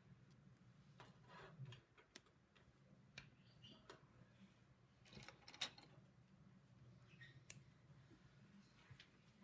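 Faint, scattered clicks and short rattles of LEGO plastic pieces being handled and pressed together, the sharpest click about five and a half seconds in, over a low steady hum.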